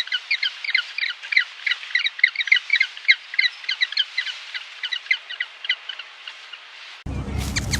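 Birds chattering: quick, short, high-pitched calls, about five or six a second. The calls cut off suddenly near the end.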